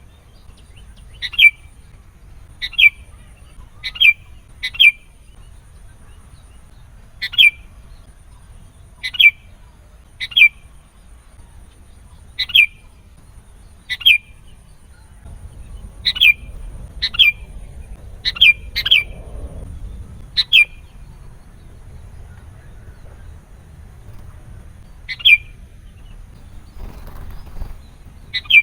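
Sooty-headed bulbul (kutilang) giving short, sharp, downward-sweeping calls every second or two, sometimes two in quick succession, over a faint low hum. The calls pause for about five seconds near the end before one more call.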